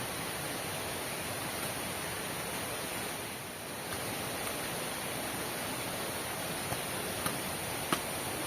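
Heavy rain falling in a steady hiss, with a few sharp taps near the end.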